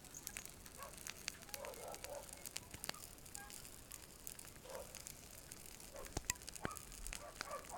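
Bonfire crackling, with irregular sharp pops and snaps from the burning wood and brief hissing in between.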